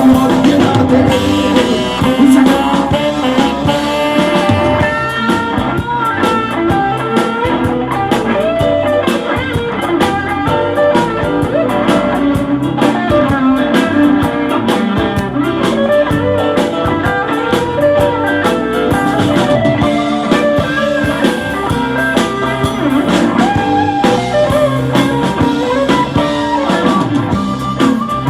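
Blues band playing an instrumental passage: a guitar lead over a steady drum beat.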